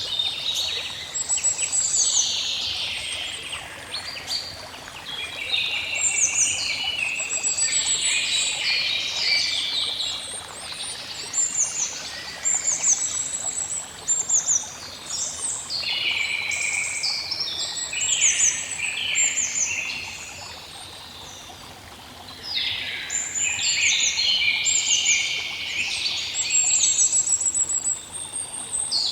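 Songbirds singing in repeated bursts of chirps and rapid high trills, with short lulls between bouts, over a faint steady wash of running water.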